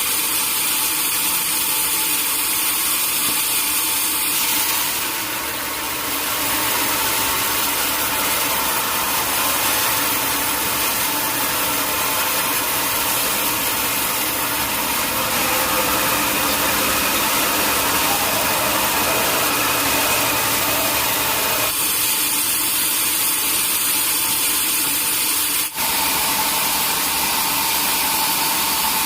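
Sawmill machinery running, a steady, loud mix of motor and saw noise, with a brief drop-out near the end.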